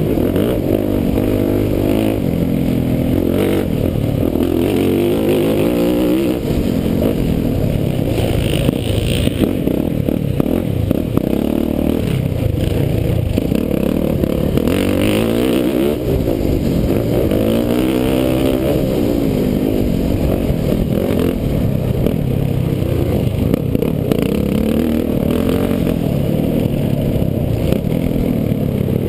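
Motocross bike's engine heard close-up from the rider's own machine, revving up and falling back over and over as it is ridden hard around a dirt track. The sound is muffled, with most of it low.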